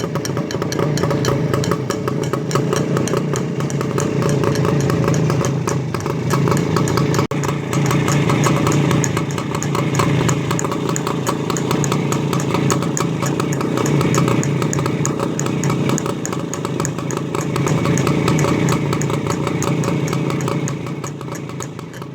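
WSK motorcycle's single-cylinder two-stroke engine putt-putting steadily at idle, fading slightly near the end.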